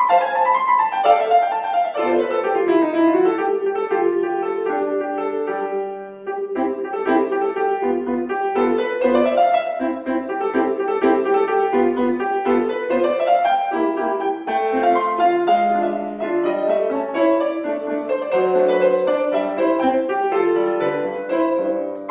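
Acoustic piano playing a classical piece with quick runs of notes, breaking off briefly about six seconds in before carrying on.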